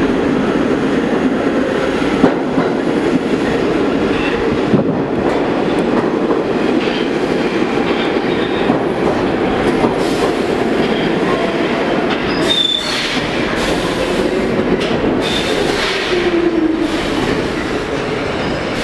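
Pullman-Standard R46 subway train running into the station: a steady rumble and clatter of steel wheels on rail, a brief high wheel squeal about two-thirds of the way in, and a falling whine near the end as the train slows.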